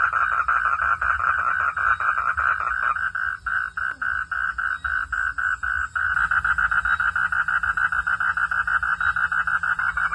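Frogs calling in a fast, pulsing chorus. From about three to six seconds in it thins to a slower train of separate pulses, about three or four a second, then fills out into the dense chorus again.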